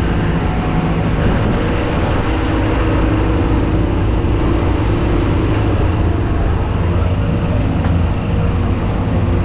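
An engine running steadily at constant speed under a continuous rushing noise.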